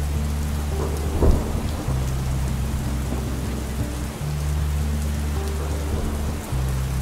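Rain and thunder ambience: a steady hiss of rain with one sharp thunder crack just over a second in, over a low rumble that breaks off and resumes every couple of seconds.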